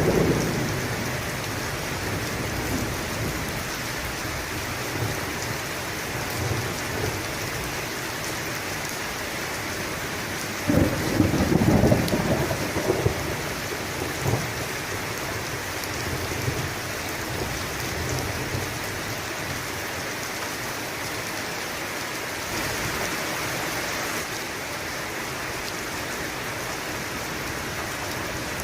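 Steady heavy rain with thunder: a rumble dies away in the first seconds, and a louder crack and rumble comes about eleven seconds in, followed by fainter rolls.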